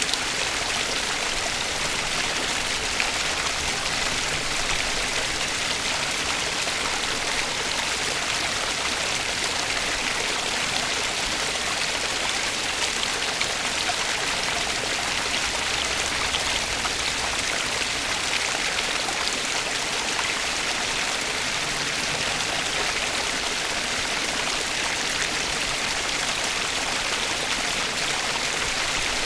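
Water of a stream flowing steadily, an even, unbroken rushing hiss that is strongest in the high range.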